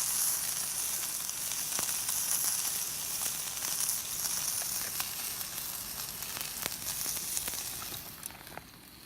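Food sizzling in a pan over a wood campfire: a steady frying hiss with scattered small pops, fading away near the end.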